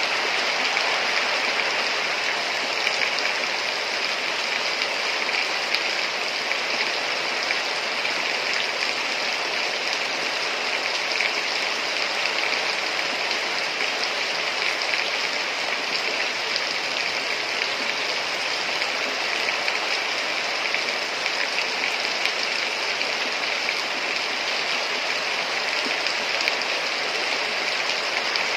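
Heavy rain falling steadily, a dense even hiss with no breaks or changes.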